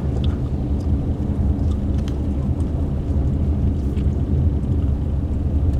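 Steady low rumble of a car's engine and tyres, heard from inside the cabin while driving on a snow-covered road, with a few faint ticks.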